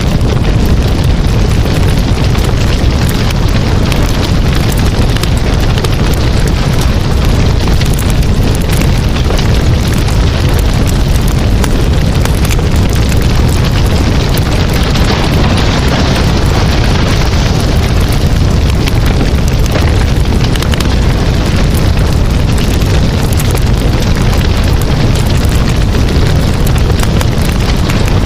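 Campfire burning steadily, with a continuous low rumble of flames and dense crackling and popping of the burning wood.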